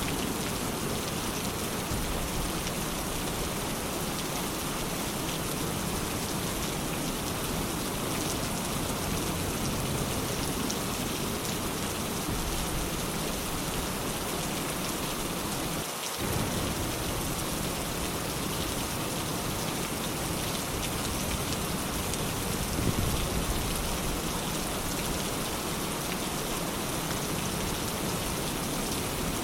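Steady rain falling, an even hiss of drops, with a brief low rumble of thunder about three-quarters of the way through.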